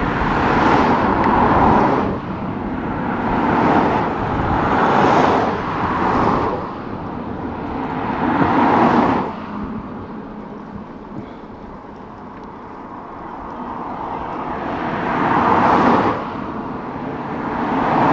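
Motor vehicles passing close by on a road one after another, each one a rush of tyre and engine noise that swells and fades, with wind rumbling on the microphone underneath.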